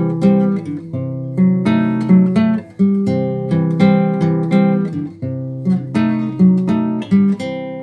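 Acoustic guitar (violão) strummed and picked through a chord progression, several note attacks a second, with no voice.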